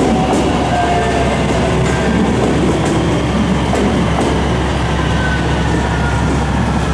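Ainokaze Toyama Railway 521 series electric train moving past along the platform track: a steady, loud rumble of wheels on rails, with faint whining tones drifting in pitch above it.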